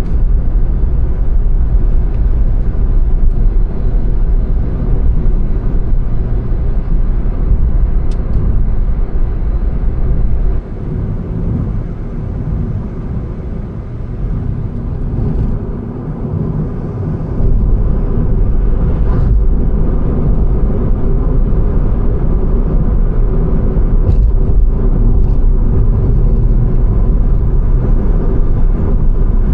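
A car driving on a road: steady low road and engine rumble. The deep rumble eases off from about ten seconds in and comes back about seven seconds later, with a few faint clicks along the way.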